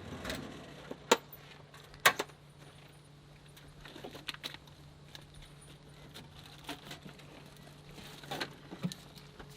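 Awning poles and metal fittings being handled: sharp metallic clicks and light rattling, with two loud clicks about one and two seconds in, over a faint steady low hum.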